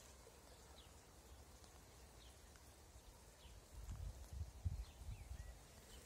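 Faint small birds chirping, short downward-sliding calls roughly once a second, over quiet outdoor ambience. About halfway in, low thumps and rumble start up on the microphone.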